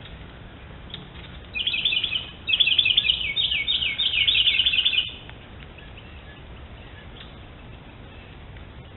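A bird singing a rapid series of down-slurred chirps in two bursts, one short and one longer, from about one and a half to five seconds in.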